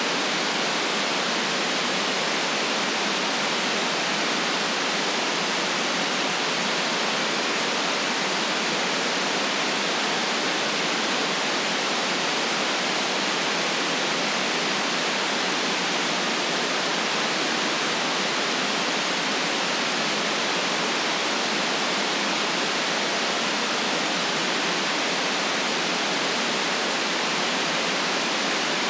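Steady white noise: an even, unchanging hiss that lacks the deepest bass and the highest treble.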